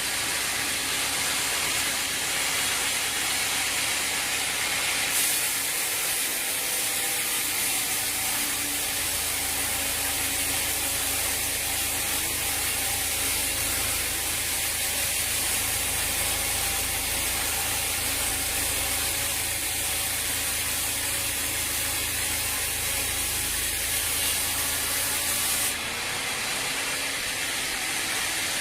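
Sawmill machinery running steadily with a loud hissing noise and faint steady tones. A deeper hum comes in about six seconds in and stops a couple of seconds before the end, as though a load were taken on and released.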